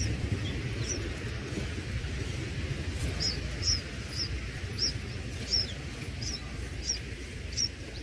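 Short, high bird chirps, one about a second in and then roughly two a second from about three seconds in, over a steady low outdoor rumble.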